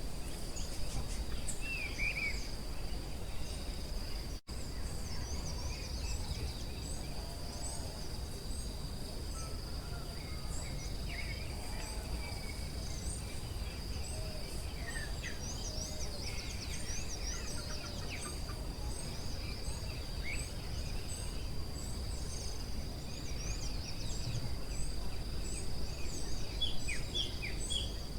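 Forest ambience: a steady high-pitched insect drone with many small birds chirping and calling throughout, over a low rumble.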